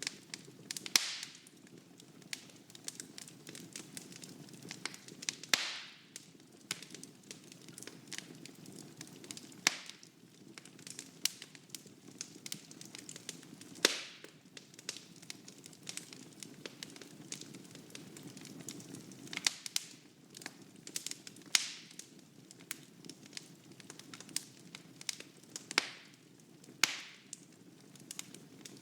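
Wood fire burning in a fireplace: a low steady rush of flames with irregular sharp crackles and pops, a few of them louder than the rest.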